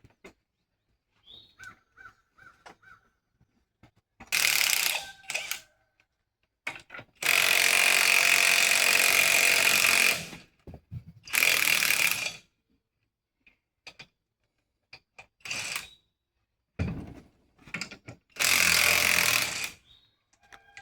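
Power impact wrench running lug nuts in several bursts of one to three seconds, the longest about seven seconds in, with short clanks between them.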